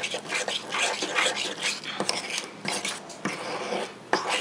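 Spoon stirring and scraping cookie dough in a ramekin, with irregular clinks and scrapes of the spoon against the dish.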